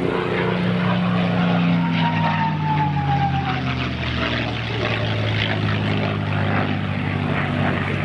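P-51 Mustang's Packard Merlin V-12 engine and propeller running at display power as the fighter makes a pass, the engine note sliding steadily lower as it goes by.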